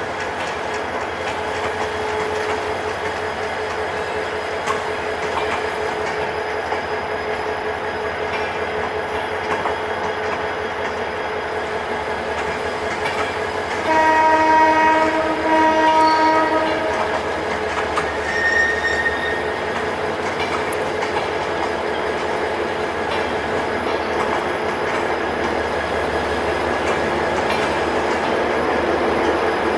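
Linke Hofmann Busch (LHB) passenger coaches rolling steadily past on broad-gauge track. About 14 seconds in, a train horn sounds two blasts back to back, lasting about three seconds in all.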